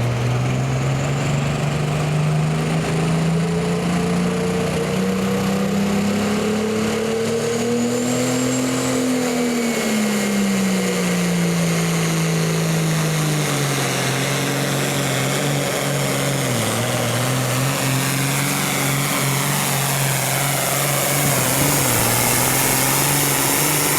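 A pulling vehicle's engine running hard under load, its pitch climbing for the first nine seconds, then dropping back and holding fairly steady with a few brief dips, with a faint high whine above it.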